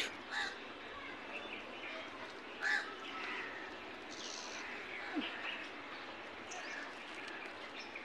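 A few faint bird calls over a low, steady outdoor background, the clearest one about two and a half seconds in.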